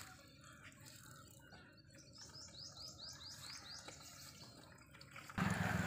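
A bird calls a quick run of repeated high notes in the middle, over faint outdoor background. Near the end a louder steady low hum with hiss starts suddenly.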